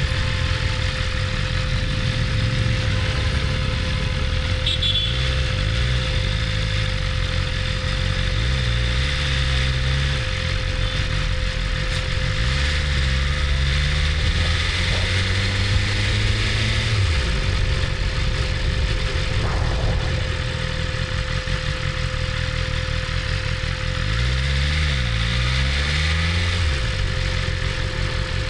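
BMW S1000RR's inline-four engine running at low speed. Its pitch rises and falls in three spells of throttle, about five, twelve and twenty-four seconds in, with a steady, lower running sound between them.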